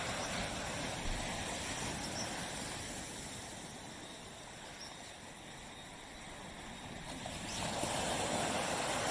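Small waves washing onto a tropical beach: the wash ebbs to a low hiss in the middle and a new wave rushes in near the end.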